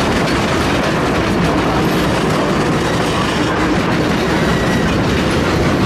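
Cumbres & Toltec narrow-gauge steam train heard from aboard: a steady, loud rumble and clatter of the cars on the rails as the locomotives work up the grade.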